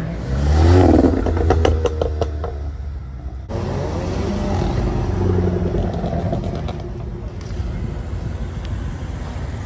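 Sports-car engine revving hard as it pulls away, with a quick series of sharp pops about two seconds in. Then another car engine rises in revs and runs on as the car drives past.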